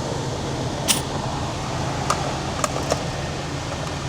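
Steady low mechanical hum, with a sharp metallic click about a second in and a few lighter clicks and taps after it.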